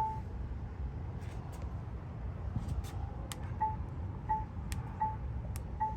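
Four short electronic beeps at one pitch, about 0.7 s apart, in the second half, over a low steady rumble with a few faint clicks.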